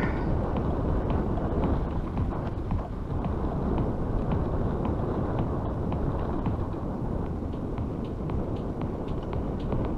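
Wind rumbling over the microphone of a moving bicycle, with frequent light ticks and rattles from the ride.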